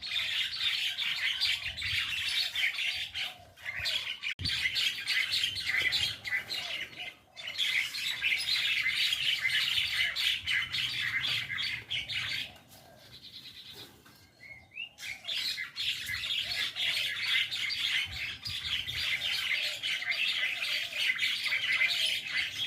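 A flock of mynas chattering and squawking over one another in a dense, continuous din, typical of a squabbling flock. The calls thin out briefly a little past halfway, then build back up.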